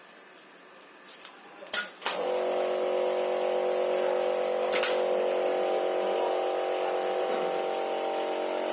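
A few sharp clicks, then about two seconds in a motor on the cup filling-and-sealing machine rig switches on and runs with a steady hum. There is another click about five seconds in.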